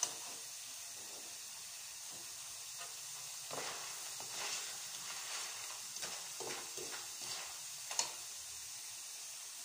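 Sliced bananas sizzling steadily in hot oil in a metal wok. From about a third of the way in, a metal spatula scrapes and clinks against the wok as the chips are stirred, with a sharp clink about eight seconds in, after which only the sizzle remains.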